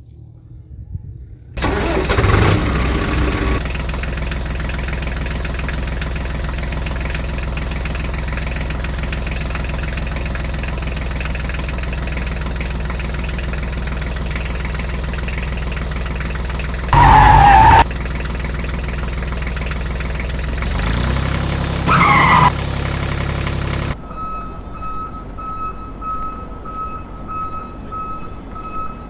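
Tractor engine sound starting about a second and a half in, then running steadily, with two brief loud bursts partway through. Near the end it gives way to a quieter sound with a pulsing high tone.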